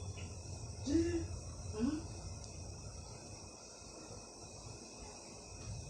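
Crickets chirping steadily in a continuous high trill, with two short murmured voice sounds about one and two seconds in.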